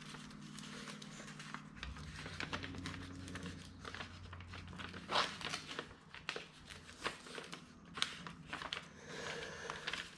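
Paper crinkling and rustling, with scattered light taps and clicks, as a patch-panel pattern is traced out. A faint steady hum sits underneath.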